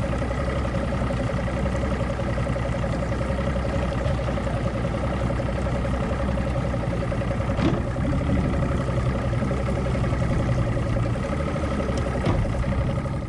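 An engine running steadily, with a constant whine over the engine note and a couple of light knocks partway through.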